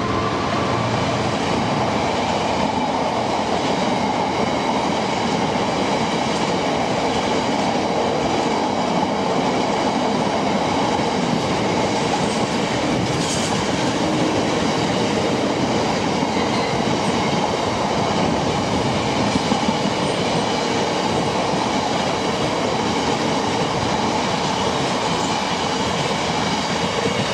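Heavy freight train running through, its wagons rolling past steadily on the rails for the whole stretch.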